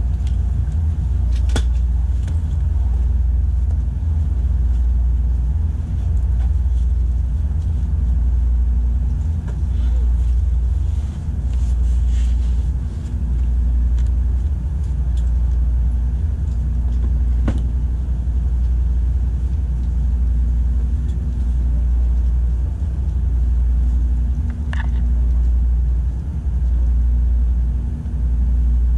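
Low rumble of a Tokaido Shinkansen train's running gear, heard inside the passenger car as it rolls along the platform pulling into a station. The rumble swells and eases about every two seconds, with a few faint clicks.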